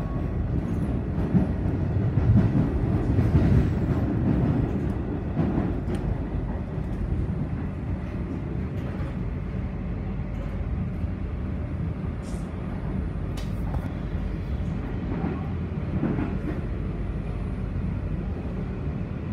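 Comeng electric suburban train running, heard from inside the carriage: a steady low rumble, a little louder a few seconds in, with a few faint clicks.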